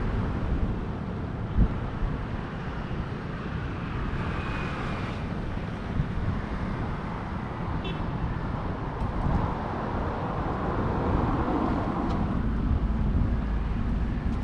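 Steady hum of road traffic with wind buffeting the microphone, and a single small thump about a second and a half in.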